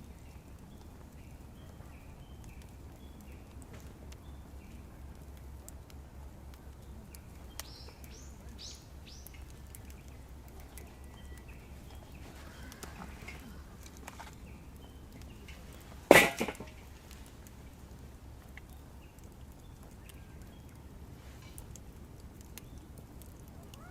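Faint short bird chirps over a low steady hum, broken by one sharp, loud knock about two-thirds of the way through.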